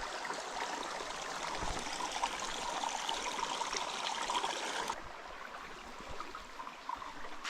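Stream of running water, a steady rush that gets a little softer about five seconds in.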